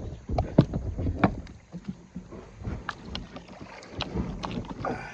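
A kayak being dragged and handled: irregular knocks, bumps and scrapes of the hull.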